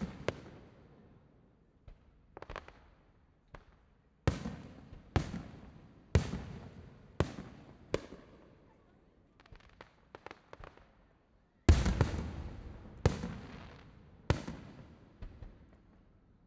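Aerial fireworks shells bursting in a steady series of sharp booms, each trailing off in a rolling echo. About two-thirds of the way through comes a quick patter of smaller cracks, followed by the loudest boom of the run.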